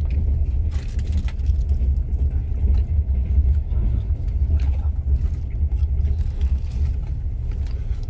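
Steady low rumble of a Trans-Siberian passenger train running, heard inside the carriage, with scattered small clicks and rattles.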